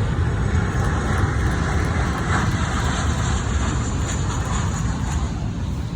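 Jet airliner coming in to land, its engines giving a steady rumble with a high whine that grows about a second in and eases off near the end.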